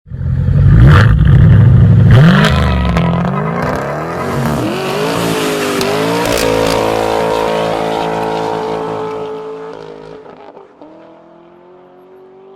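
Car engine and exhaust revving hard, pitch sweeping up and down as it accelerates, then settling and fading away.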